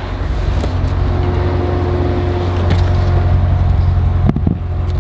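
Chevrolet Corvette C7 Stingray's 6.2-litre V8 running steadily as the car drives along, a deep, even engine note with road and wind noise, heard from the open cabin. The sound breaks off briefly a little past four seconds in.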